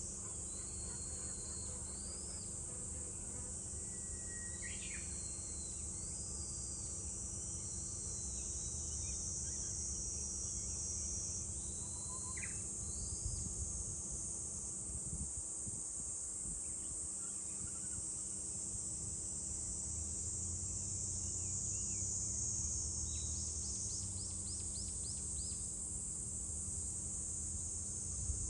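A steady, high-pitched chorus of cicadas, with short bird chirps and whistles scattered through it and a quick trill of even notes about three-quarters of the way in, over a low steady rumble.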